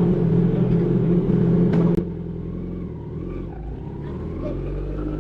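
Kawasaki Z900's inline-four engine running at a steady, even pitch. About two seconds in, the sound drops suddenly to a quieter, lower engine hum.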